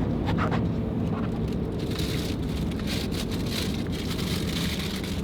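Road and engine noise inside a moving vehicle's cabin, a steady low rumble, with scattered crackling from about two seconds in.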